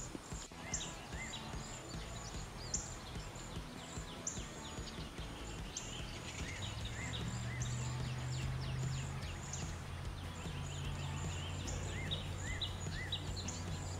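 Small birds chirping in the background: many quick, high, down-slurred chips and now and then short arched calls. A low steady hum comes in about six seconds in.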